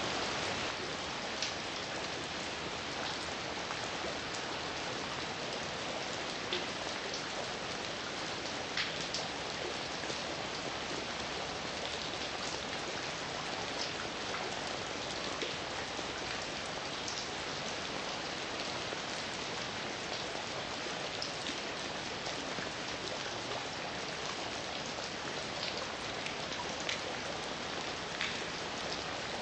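Steady heavy rain falling, an even hiss with scattered individual drops ticking through it.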